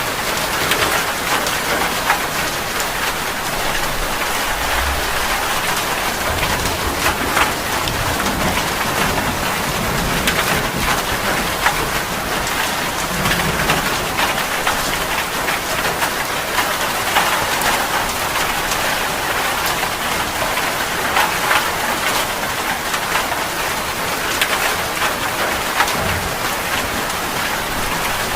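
Heavy rain falling steadily: a dense, even hiss with many separate drops ticking on a surface.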